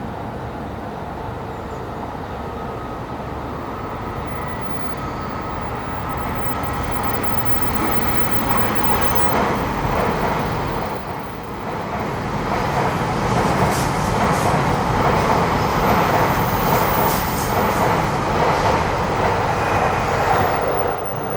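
E7 series Shinkansen train running on the line, a steady rumble and rail noise that grows gradually louder. It dips briefly about halfway through, then stays loud with scattered high clicks and squeals.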